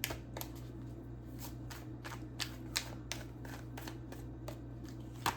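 Tarot cards being shuffled and handled: a string of short, irregular card snaps and clicks, two or three a second, over a steady low hum.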